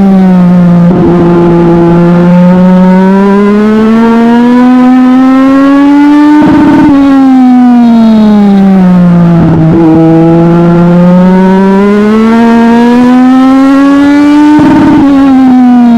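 Legend race car's Yamaha motorcycle engine at racing speed, its pitch climbing steadily for several seconds, then falling off sharply with a brief crackle as the driver lifts, then sliding down and climbing again. The lift comes about six and a half seconds in and again near the end.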